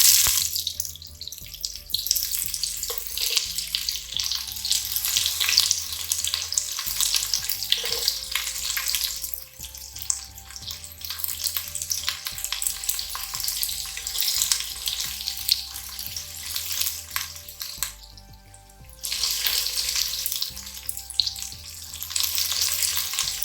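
Sliced onions sizzling and crackling in hot coconut oil in a pan. The sizzle dips briefly about eighteen seconds in and then resumes.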